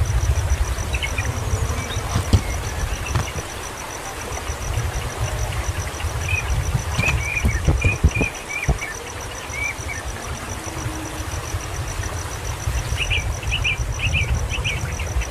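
Short bird chirps in scattered runs, a busier run near the end, over an insect's steady high-pitched trill and a continuous low rumble.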